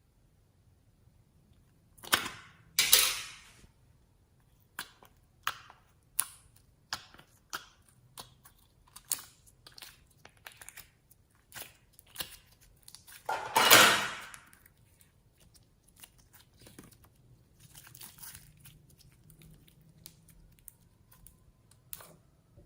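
Slime being worked by hand, giving a scattered series of sharp pops and crackles, with two louder, longer squelching crackles about two seconds in and again about halfway through.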